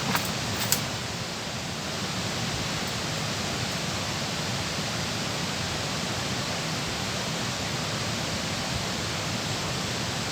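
Steady rush of water pouring over a dam, with a few light clicks in the first second.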